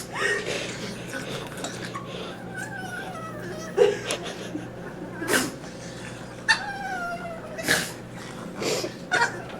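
A pet animal calling: two drawn-out calls that fall in pitch, a few seconds apart, among several short, sharp sounds.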